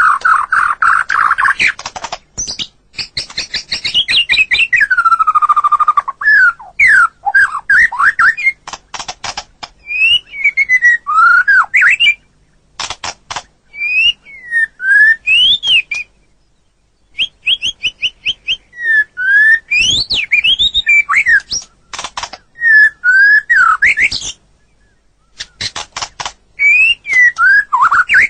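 White-rumped shama (murai batu) singing: a fast chattering trill at the start, then runs of rapid clicking notes alternating with clear, quickly rising and falling whistled phrases, broken by short pauses.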